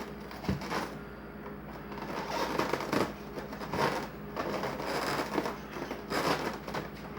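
Irregular scraping and crunching of plastic pipe elbows being worked against the cut holes of a styrofoam cooler lid, the foam squeaking and crackling as the pieces are handled.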